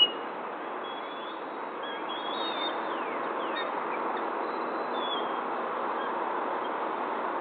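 Faint bird chirps, a few short sliding notes over the first few seconds and one more about five seconds in, over a steady outdoor background hiss.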